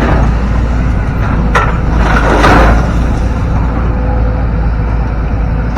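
Heavy diesel machinery running with a steady low rumble, with a sharp crack about one and a half seconds in, followed by a rougher crunching noise.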